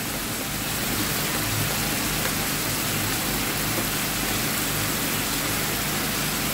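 Diced boneless chicken sizzling steadily in oil in a non-stick frying pan.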